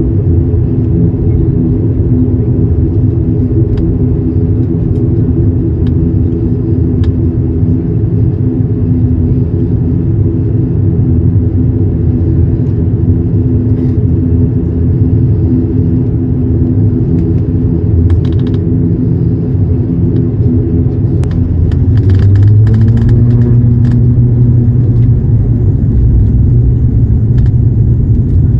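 Cabin drone of an ATR turboprop airliner: the propellers and engines hum steadily over a low rumble. About two-thirds of the way in, the pitch shifts and a deeper hum grows louder as the engine power changes, with a few light clicks and rattles around then.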